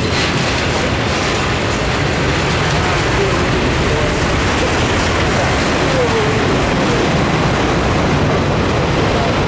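Freight train's autorack cars rolling past close by: a steady rumble and rattle of steel wheels on the rails, with a few brief faint squeals.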